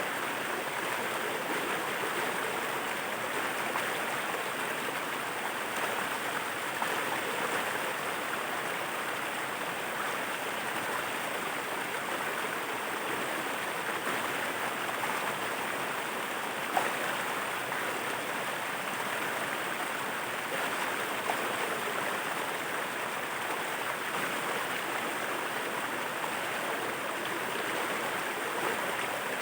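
Waterfall water rushing and splashing in a steady, unbroken wash of noise, with a couple of faint ticks partway through.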